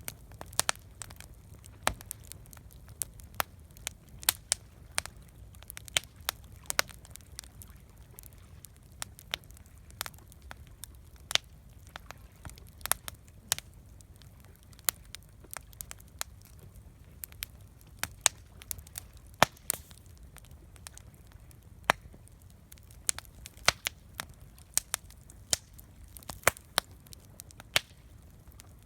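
Wood campfire crackling, with irregular sharp pops and snaps several times a second, some much louder than the rest, over a steady low rumble.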